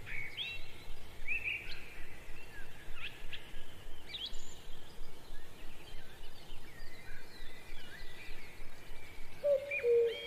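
Birds chirping: many short rising and falling calls, with a lower held tone coming in near the end.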